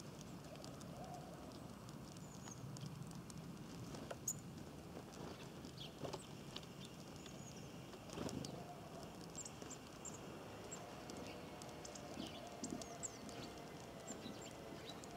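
Small birds at a bird feeder giving short, faint chirps on and off, with a few sharp knocks now and then.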